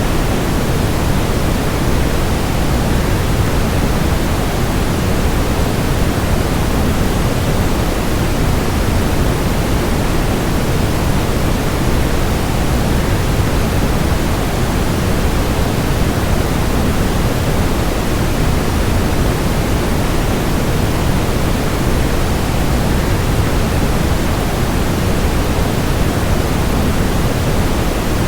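Waterfall white noise: a steady rushing hiss, weighted toward the low end, with no change or break.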